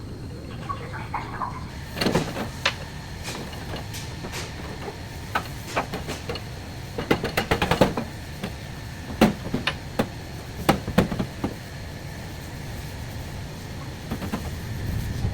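Irregular knocks and clatter of parts and tools being handled during car body repair work, a dense run of clacks about halfway through, over a steady low workshop hum.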